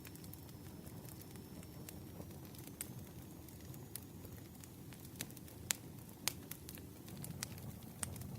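Campfire burning: a steady low rumble of flames with scattered sharp crackles and pops of burning wood, several louder pops in the second half.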